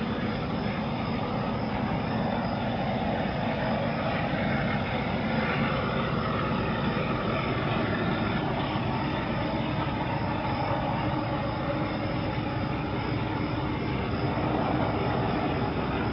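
CSX rail train's cars, loaded with long rail, rolling steadily past on the track, a continuous even noise of wheels and cars.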